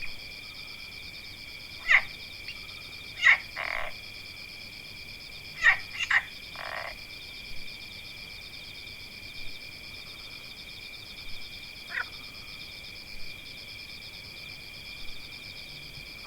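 Natural animal chorus: a steady, high, finely pulsing trill, with several loud, short, sharp calls in the first half and another about twelve seconds in, and two short rasping calls at about four and seven seconds.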